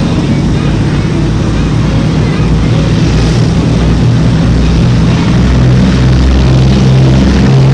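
Propeller aircraft engines droning in a flypast, growing steadily louder as the plane comes closer.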